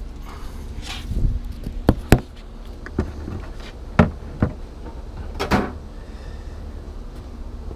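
Hand tools working on an outboard motor's propeller: a handful of sharp knocks and clicks, with two brief scraping rustles, over a steady low background hum.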